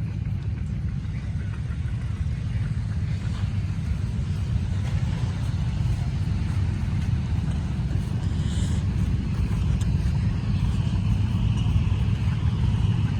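Antique farm tractor engine running with a low, steady rumble, growing slightly louder toward the end as it draws closer.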